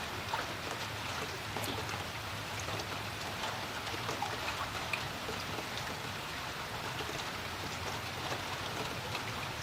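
Steady rain falling on a creek, a constant hiss of rainfall with many scattered individual drops tapping and plinking, over the flowing creek water.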